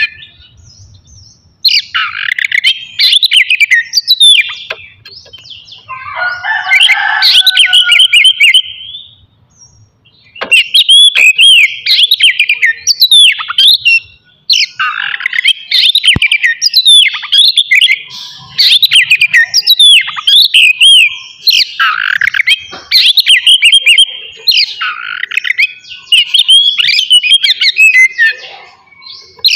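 Oriental magpie-robin (kacer) singing loud, rapid phrases of sweeping whistled notes and chirps. There are short pauses near the start and about a third of the way in, and a harsher, lower-pitched passage just before the second pause.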